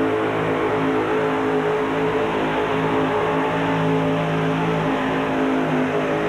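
Modified pulling tractor's engine power running hard at a steady, high pitch as it drags the weight sled down the track during a pull.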